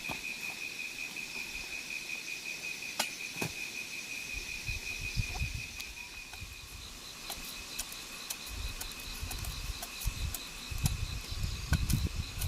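Insects trilling steadily in a high, finely pulsing tone, with a second, higher trill joining about seven seconds in. A couple of sharp clicks come about three seconds in, and a low rumble builds near the end.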